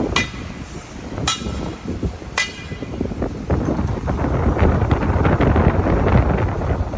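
Three ringing metallic clangs about a second apart, a hammer striking the fittings of a street water valve to force it shut, which can stick with debris. Then a low rumble of wind on the microphone builds.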